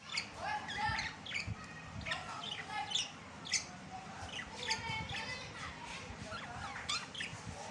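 Budgerigars chattering and warbling: a steady stream of quick chirps and squawks.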